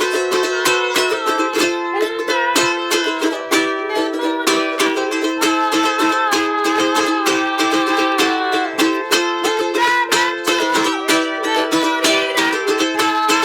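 Instrumental break in a song: a small, high-pitched string instrument strummed quickly and steadily, with no bass underneath.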